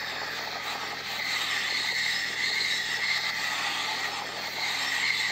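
Electric commuter train passing close by at speed: a steady rush of wheels on rails with a high whine, growing louder about a second in.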